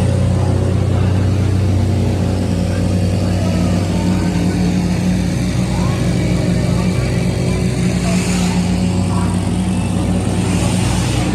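Drift car engine idling steadily: an even, low running sound that holds its pitch with no revving.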